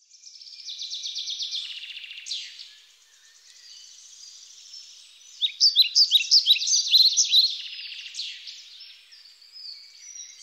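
Songbirds singing: rapid high trills in the first two seconds, then a run of loud, sharp, downward-sweeping chirps from about five to eight seconds in.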